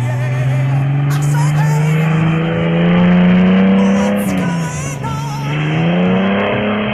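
Chevrolet Caravan's engine revving hard, its pitch climbing steadily for about four seconds, falling away briefly, then climbing again near the end.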